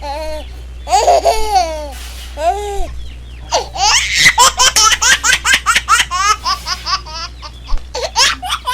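A baby laughing and giggling in quick, high-pitched bursts that come fastest in the second half.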